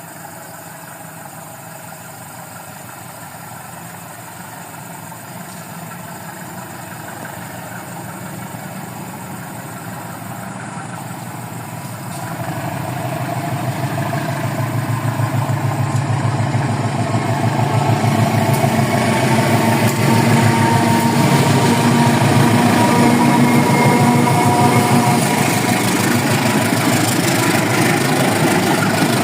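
CC 201 diesel-electric locomotive's engine running, its drone growing steadily louder for about 18 seconds as it approaches and then holding loud and steady, with a rising rumble of train noise beneath it.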